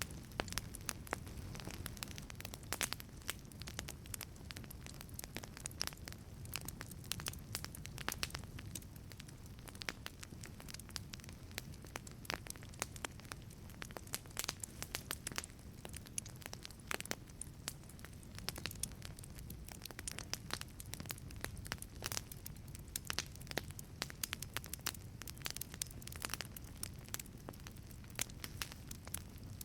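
Wood fire burning in a wood-fired pizza oven, with a dense, irregular crackle of sharp pops over a low steady rumble.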